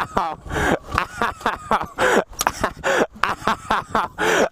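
A person's voice making short wordless sounds in many quick bursts.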